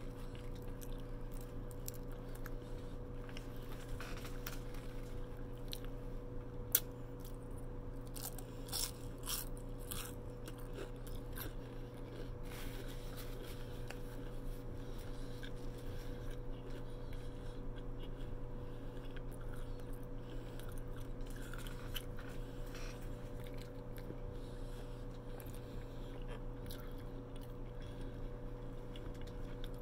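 Close-up eating sounds of a person chewing and biting fried lumpia: scattered crunches and mouth clicks over a steady low hum. A single sharp click about seven seconds in is the loudest sound.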